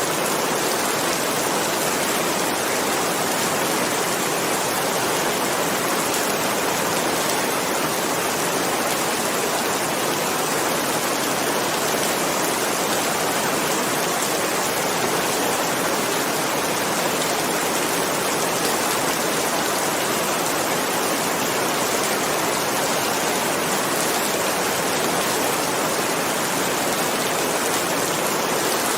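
Steady, dense rain falling, with no thunder.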